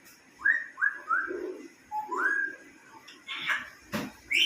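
African grey parrot whistling: three quick rising whistles in a row, then a longer rising whistle, followed near the end by a short scratchy sound, a click and one more whistle.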